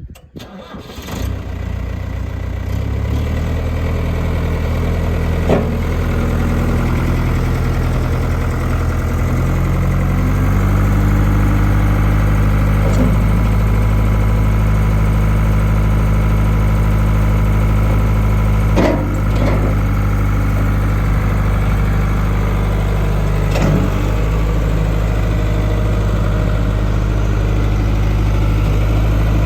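Diesel engine of a New Holland 4835 tractor starting, then running steadily; its engine speed steps up about ten seconds in and then holds. A few brief clicks sound over it.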